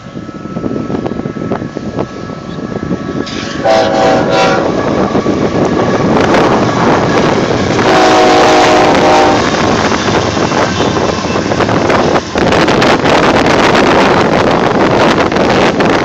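Union Pacific diesel freight locomotives passing close by, sounding a chord air horn twice: a short blast about 4 seconds in and a longer one about 8 seconds in. Around the blasts and after them comes loud, steady noise from the locomotives and the rolling boxcars of the freight train.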